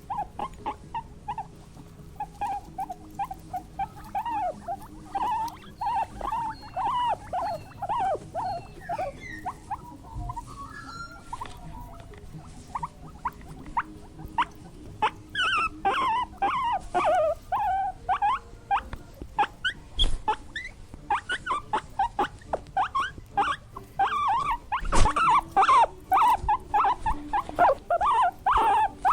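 Small animals squeaking: a rapid string of short, high, wavering calls that keeps up throughout, thickening in the second half.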